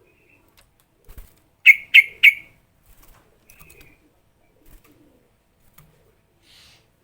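Sooty-headed bulbul (trucukan) calling. Three loud, sharp notes in quick succession about two seconds in, followed by a few fainter short notes and a brief buzzy note near the end.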